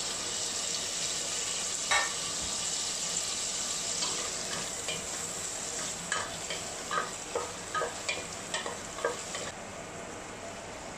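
Chopped tomatoes sizzling in hot coconut oil with fried onions in a stainless steel pot, a wooden spoon stirring and scraping through them with a sharp knock about two seconds in and a run of clicks and scrapes later on. The sizzle dies down near the end.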